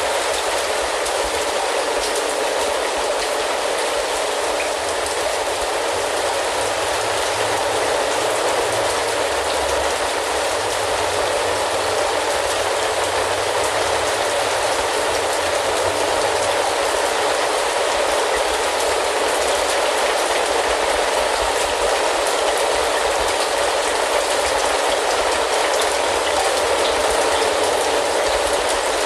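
Steady, heavy rain, a dense even hiss of drops that does not let up.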